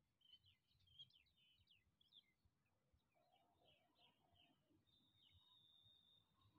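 Near silence, with faint bird chirps and a thin, steady high note near the end.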